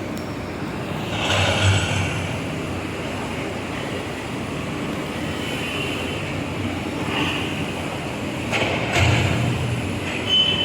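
Backhoe excavators working: diesel engines running with hydraulic machinery noise, swelling louder briefly about a second in and again near the end.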